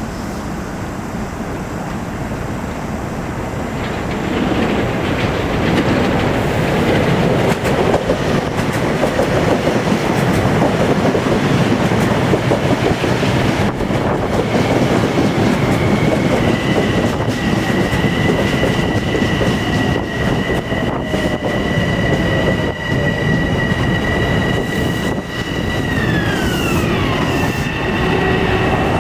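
A train running past on the rails, its noise swelling about four seconds in. Partway through a steady high whine joins it, and near the end that whine slides down in pitch.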